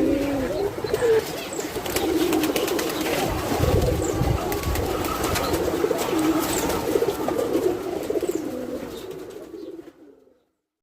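Domestic pigeons (Biribaj and racing homers) cooing: overlapping low, wavering coos with scattered sharp clicks, fading out near the end.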